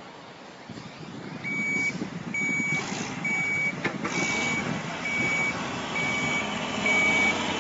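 Reversing alarm on a heavy construction vehicle, beeping at one steady pitch about once a second over the rumble of the machine. There is a single sharp knock about halfway through.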